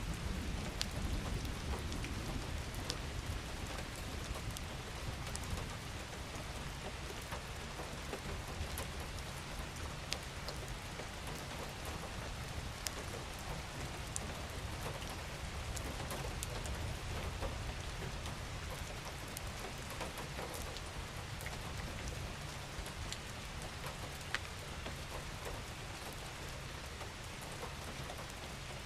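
Steady rain falling: an even hiss with scattered sharp drop ticks and a low rumble underneath, the rumble a little stronger in the first few seconds.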